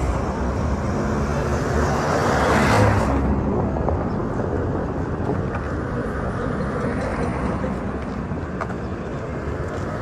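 Road traffic noise, with vehicles running along the road; a vehicle's sound swells and fades about two to three seconds in.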